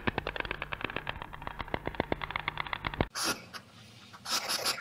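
Stork bill-clattering: a fast rattle of sharp clicks that stops abruptly about three seconds in. Then a hedgehog gives short, breathy sniffing huffs.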